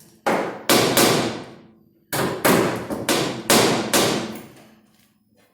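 Hammer blows on a car's sheet-steel quarter panel, each ringing out briefly: two strikes, a short pause, then four more in quick succession. The panel's lower lip is being knocked into place under the inner support beam.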